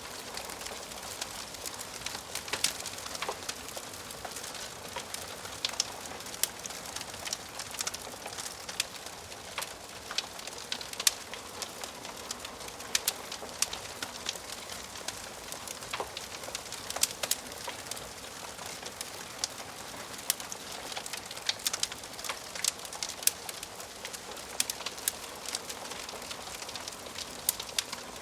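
Wood fire crackling in a fireplace: a steady hiss with frequent sharp, irregular pops and snaps, some much louder than others.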